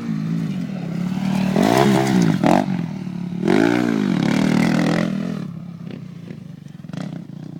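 Motocross bike engine revving, its pitch rising and falling about three times, then dropping away and fading after about five seconds.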